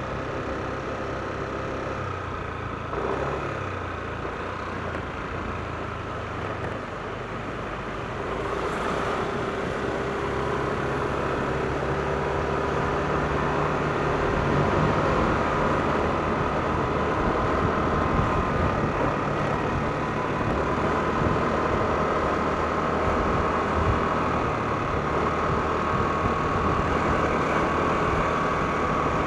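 Yamaha NMAX scooter's single-cylinder engine running while riding through city streets, with a steady whine over the road noise. It gets louder about eight seconds in as the scooter picks up speed.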